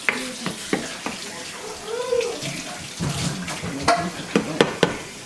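Water running from a kitchen tap, with several sharp clicks and knocks of kitchenware, a cluster of them about four seconds in.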